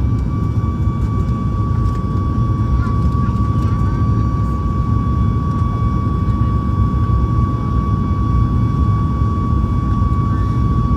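Boeing 737 MAX 8's CFM LEAP-1B turbofans heard from inside the cabin during the climb, at reduced climb thrust after the takeoff power setting: a steady deep rumble with a high fan whine that holds its pitch, sagging very slightly.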